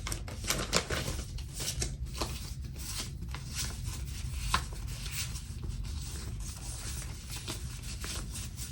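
Paper sticker sheets being shuffled, crinkled and peeled, with many short clicks and rustles, over a steady low rumble of thunderstorm ambience.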